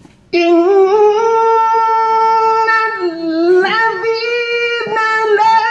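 A man's voice in melodic Quran recitation (tajwid), starting abruptly and holding long high notes, with a dipping, ornamented turn in pitch around the middle.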